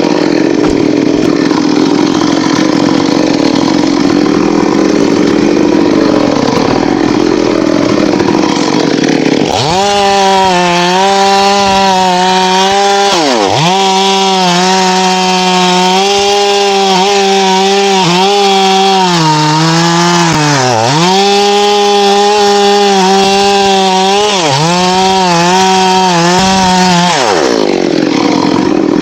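Chainsaw cutting into a teak trunk, the engine under load with a rough, dense sound. About ten seconds in, its note becomes a clear steady high pitch that dips briefly a few times as the chain bites. Shortly before the end it drops back to the rougher cutting sound.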